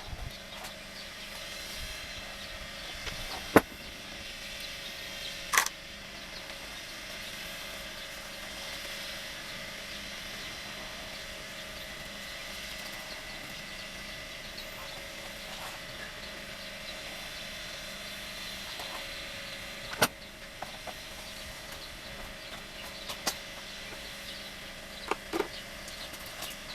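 A handful of sharp knocks and clicks of tools and metal parts being handled during an engine teardown, the loudest about three seconds in and again near the middle, over a steady faint hum.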